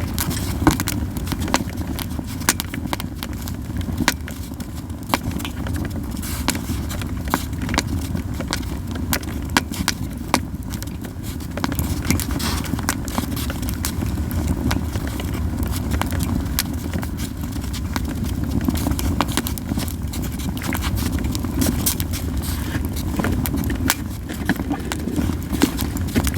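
Japanese yew logs burning in an open fire pit, crackling and popping with many irregular sharp snaps, several a second, over a low steady rumble.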